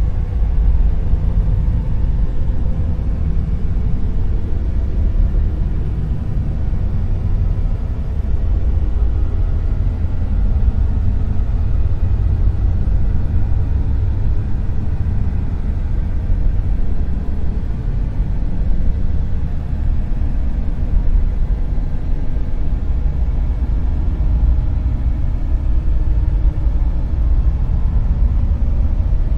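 Dark noise: a steady, deep rumbling hiss with its weight in the bass and little treble, unchanging throughout.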